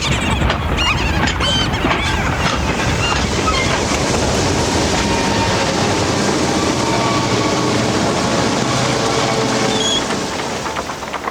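A train running on the rails: a steady, loud rushing clatter, with a few short high squeals in the first few seconds, easing off slightly near the end.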